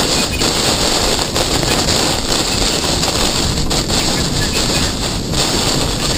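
Damaging thunderstorm winds of about 80 mph blowing hard against the vehicle and microphone: a loud, steady rush of wind noise.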